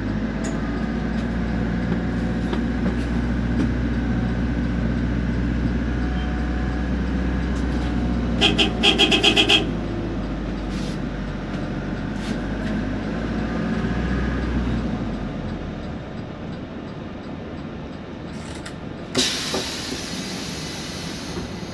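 Temsa Prestij SX midibus engine pulling under load, with a turbo and differential whine that rises and falls over it. A rapid run of beeps comes about halfway through. The low engine drone then drops away, and a short sharp hiss of air follows near the end.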